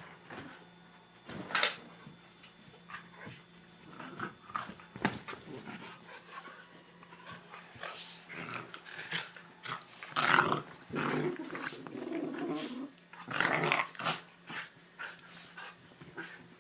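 Pit bull puppies play-fighting and growling, with sharp clicks and knocks scattered through. The growling grows denser and louder in the second half.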